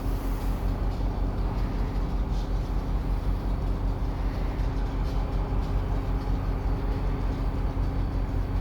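Amtrak passenger train running at the station, a steady low rumble with a constant machine hum.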